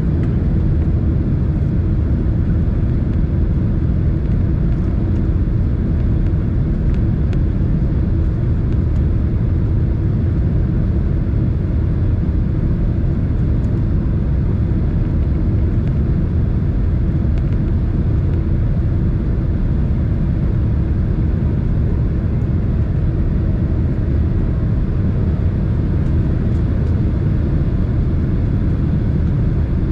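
Boeing 767 cabin noise: a loud, steady low rumble of the engines and airflow, heard from inside the cabin, with a faint steady hum under it.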